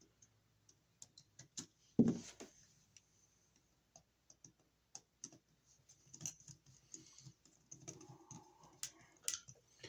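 Irregular small clicks and ticks of a stranded copper wire being bent and worked around the terminal screw of a wall receptacle, with a louder knock about two seconds in.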